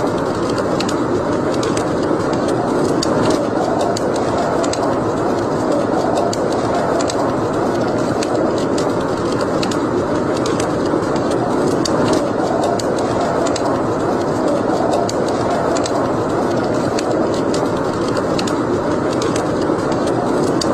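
Wood fire burning in a fireplace: a steady rush with scattered sharp crackles and pops throughout.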